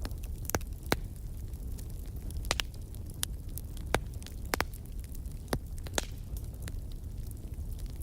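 Wood fire crackling in a fireplace: sharp snaps and pops every second or so, about eight loud ones, over a low steady rumble of the flames.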